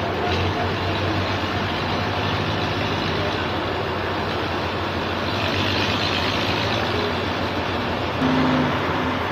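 Steady engine and machinery running, with a constant low hum throughout. A brief louder tone comes near the end.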